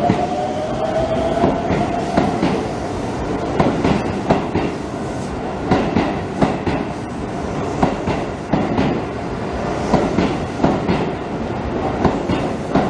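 Electric train running along the platform, its wheels clattering over rail joints in a repeating clickety-clack. A high whine from the train fades out about two seconds in.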